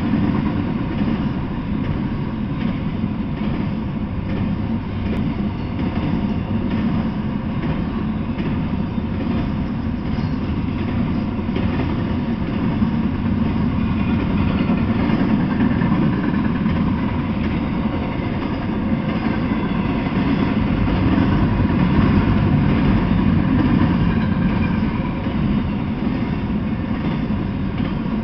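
A freight train of double-stack container well cars rolling past: a steady rumble and clatter of steel wheels on the rails, growing a little louder about halfway through.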